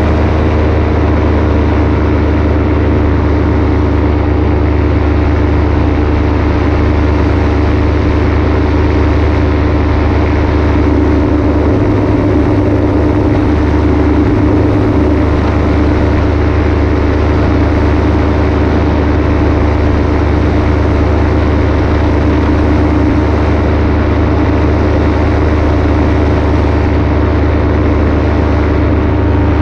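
Paramotor engine and propeller running steadily at cruise power, loud and close, a deep drone with a steady whine over a rush of air noise.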